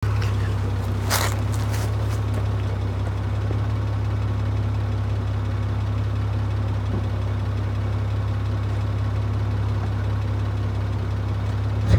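A 2000 Honda Accord's 3.0-litre V6 idling steadily through an aftermarket cat-back exhaust, with a low, even drone. There is a brief scratchy click about a second in.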